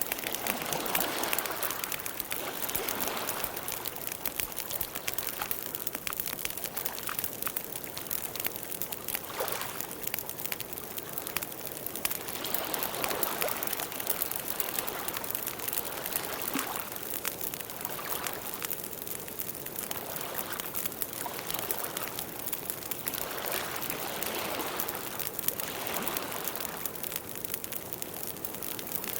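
Campfire burning: a steady run of small crackles and pops over a soft rushing hiss of flames that swells and fades now and then.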